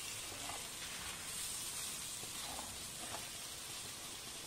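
Mutton kebab balls shallow-frying in oil in an open pan: a steady sizzle with a few faint pops, as the leftover liquid cooks off.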